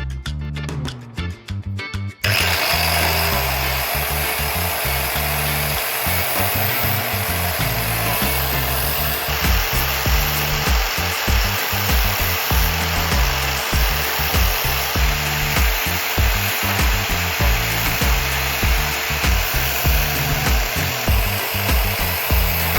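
A power tool starts about two seconds in and runs steadily, its motor tone rising at start-up, while it works material with a dense rasping noise. Background music plays throughout.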